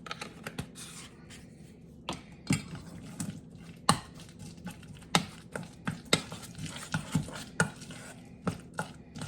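A utensil stirring a thick mayonnaise and Parmesan coating in a bowl, with irregular sharp clacks against the side of the bowl.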